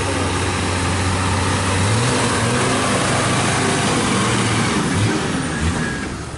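Small vehicle engine running, its steady low note wavering and shifting in pitch from about two seconds in, heard as running well.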